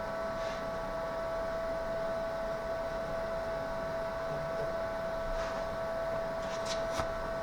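Steady machine hum, one constant tone with overtones, with a couple of faint clicks near the end.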